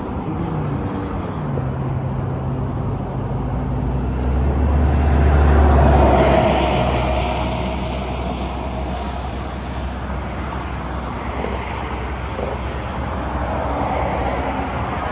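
Motor vehicle engines running, one note dropping in pitch near the start; a vehicle's sound swells to its loudest about six seconds in, then fades back to a steady rumble.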